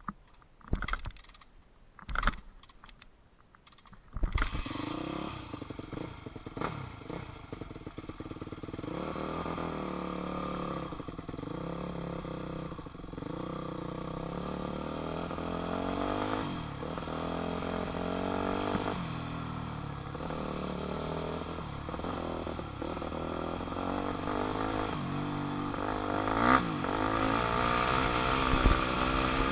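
A few knocks, then about four seconds in a 2006 Yamaha YZ250F's four-stroke single-cylinder engine comes in loud. Its pitch keeps rising and falling as the dirt bike is ridden around a motocross track, accelerating and backing off.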